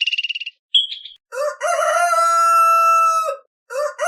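Rooster crowing twice: a long cock-a-doodle-doo held steady for about two seconds, with a second crow starting near the end. A high pulsed trill cuts off in the first half second before the first crow.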